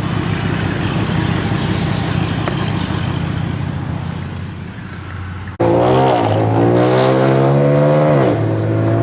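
A car engine running steadily. About halfway through, the sound cuts abruptly to a louder car engine being revved: the pitch climbs for a couple of seconds, drops sharply as the throttle is let off, then holds again near the end.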